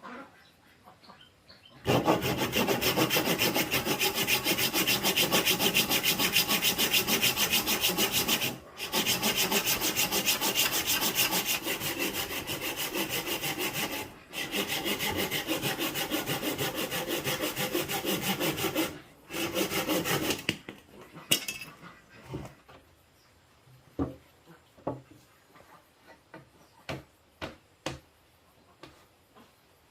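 Wood being sawn in one long run of about eighteen seconds, broken by three short pauses. After it stops come a few light knocks of wood being handled.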